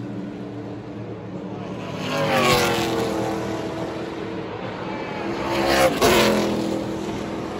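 NASCAR stock-car V8 engines running at racing speed, with two close pass-bys about 2.5 and 6 seconds in, each rising to a loud peak and then dropping sharply in pitch as the vehicles go by.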